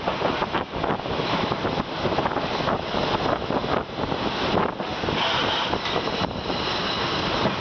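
Passenger train rolling into the station, its wheels clattering rapidly and unevenly on the rails, with wind buffeting the microphone.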